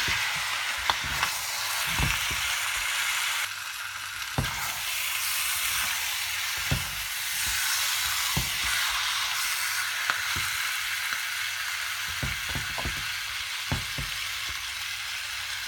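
Spiced chicken pieces sizzling and frying in a wok while being stirred, with irregular knocks and scrapes of a wooden spatula against the pan.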